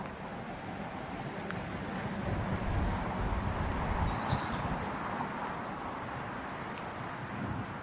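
Outdoor canal-side ambience: a steady rumble of distant traffic that swells around the middle and then eases, with a few short high bird chirps about a second and a half in, around four seconds in and near the end.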